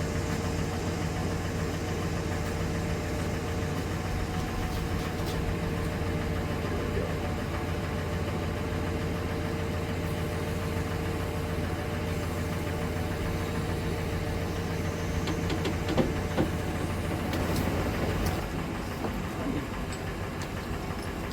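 Vehicle engine idling steadily, then going quiet about eighteen seconds in, with a few light clanks shortly before.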